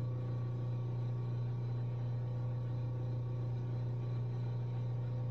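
Steady low hum, even in level, with no knocks, clicks or other events.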